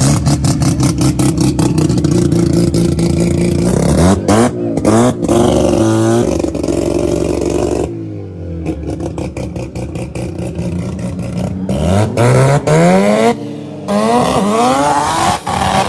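Drag car engines revving hard, over and over: a held high-rpm stretch with rapid crackling at first, then repeated blips that rise and fall in pitch.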